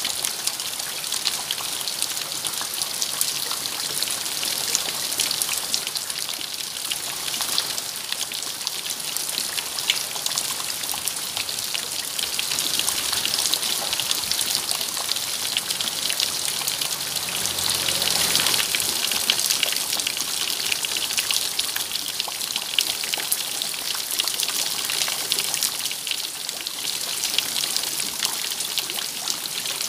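Steady rain, dense with small pattering drops, swelling a little around the middle.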